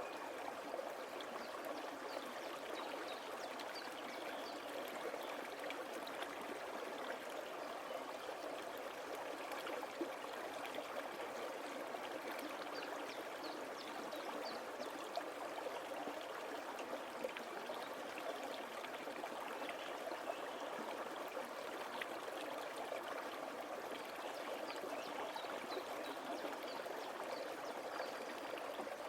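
Small forest stream flowing steadily over stones, a continuous babble and trickle with faint scattered splashes.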